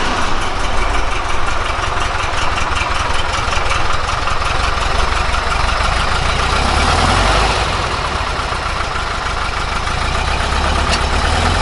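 1961 Porsche 356B Super 90's air-cooled flat-four engine idling steadily just after a cold start.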